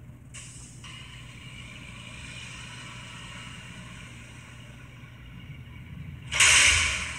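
Garbage truck engine running with a low hum and a steady hiss. About six seconds in comes a sudden loud burst of hissing air that fades over about a second, like an air-brake release.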